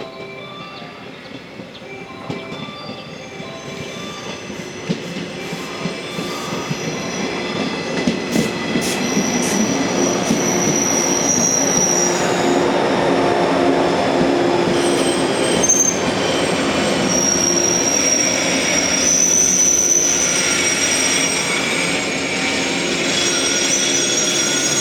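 Electric trainset rolling along the platform, growing louder over the first dozen seconds and then holding steady. High-pitched wheel or brake squeals ring above the rumble, with a few sharp clicks about eight seconds in.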